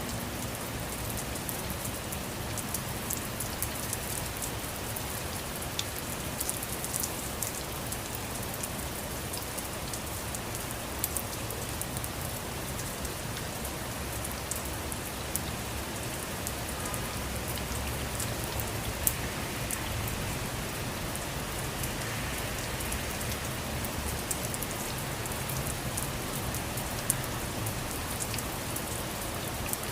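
Steady rain falling: an even hiss with many small drops ticking, and now and then a single louder drop tap.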